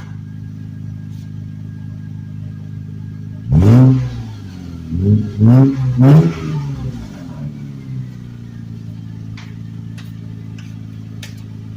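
Lexus ES300 V6 with its muffler deleted, idling and then revved four times in quick succession about three and a half seconds in: one bigger rev, then three short blips, each rise and fall of the exhaust note plainly heard, before it settles back to a steady idle.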